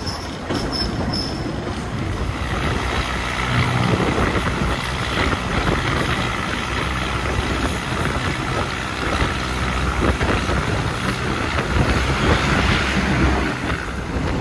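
Running noise of a train heard from inside a passenger carriage: wheels on the rails and rushing air in a steady din that grows louder about two seconds in.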